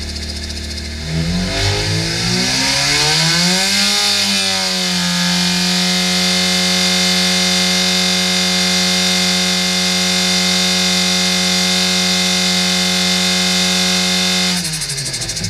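Rotrex C15-supercharged 1293cc A-Series engine on an engine dyno: idling, then revved up about a second in and held steady at 5500 rpm, dropping back as the throttle closes near the end.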